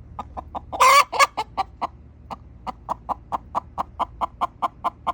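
Hens giving rapid, repeated alarm clucks, about four a second, with two loud squawks about a second in: the frightened distress calling of chickens just after a hawk attack.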